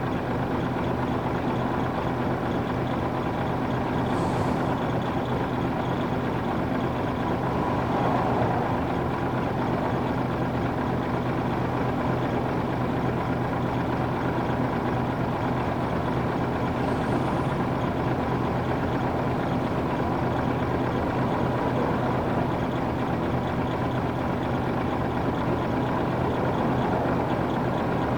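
Nissan Diesel UA440 city bus's PF6 inline-six diesel engine running at a steady, unchanging speed, with brief faint high hisses twice.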